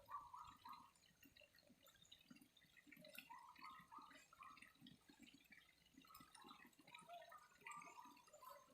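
Faint trickling of flowing water, with irregular small drips and gurgles.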